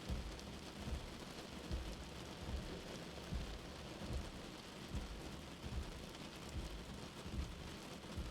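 Steady rain heard from indoors, mixed with a soft, low heartbeat sound that thumps about every 0.8 seconds.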